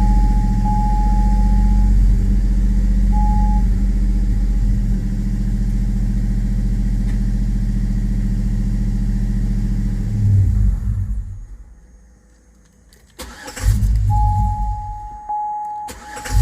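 The 5.3-litre V8 of a 2005 Chevrolet Tahoe idling, then dying away about ten seconds in: the intermittent stall being diagnosed. After a short quiet it is cranked and catches again near the end, with a steady high beep sounding on and off.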